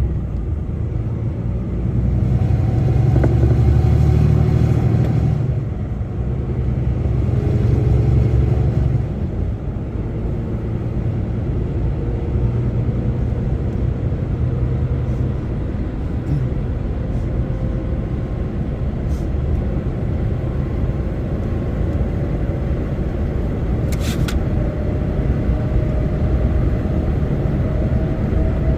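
Heavy truck engine and road rumble heard from inside the cab while driving: a steady deep rumble that swells twice in the first nine seconds, then the engine note slowly rises as the truck gathers speed. A brief click about 24 seconds in.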